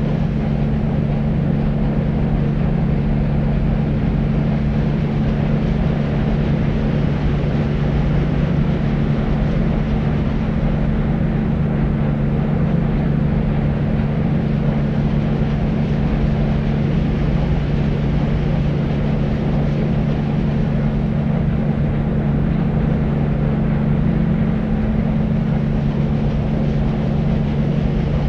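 Deep white noise for sleep: a steady, unchanging hiss-rumble weighted toward the low end, with a strong low rumble and little treble.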